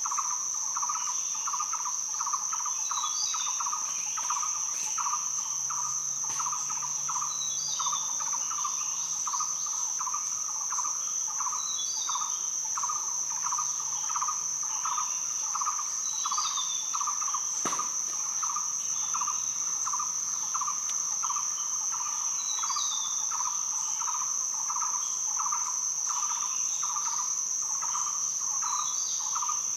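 Rainforest night-and-day insect chorus: a steady high-pitched insect drone under a lower chirping pulse about three times a second. A bird calls a short falling phrase every four to five seconds, and there is one sharp click about two-thirds of the way through.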